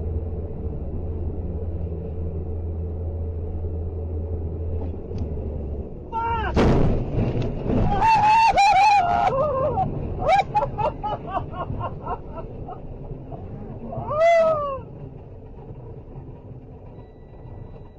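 Steady vehicle drone, then a sudden loud crash about six seconds in, followed by several seconds of wavering wailing cries and one more short wail near the end.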